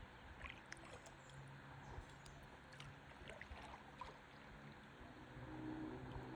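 Faint river water lapping and trickling against a stand-up paddleboard, with a few light clicks in the first few seconds and a slight swell near the end.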